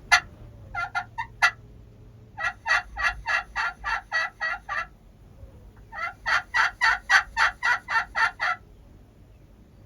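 Wild turkey yelping: a single note, a short run of three, then two longer runs of about ten evenly spaced yelps each, roughly four a second.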